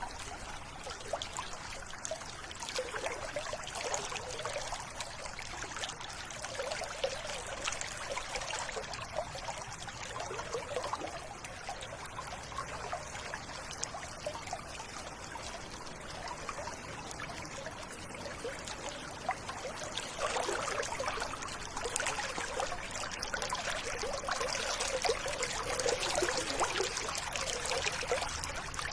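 Stream water trickling and babbling over stones, steady with bubbling, growing a little louder about two-thirds of the way through.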